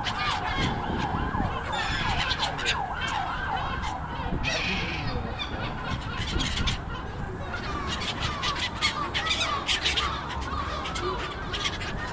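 A flock of seagulls calling at once: many overlapping short squawks with long rising and falling cries, over a steady low background noise.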